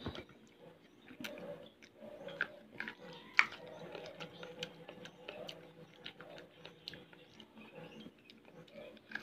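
Person chewing food close to the microphone: an irregular run of small crunches and mouth clicks, one sharper crunch about three and a half seconds in.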